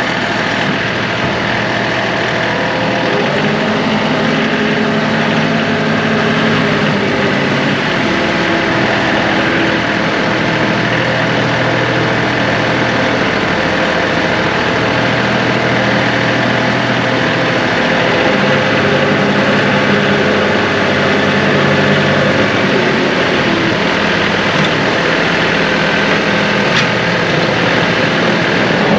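John Deere 2038R compact tractor's three-cylinder diesel engine running steadily, its note shifting up and down a few times.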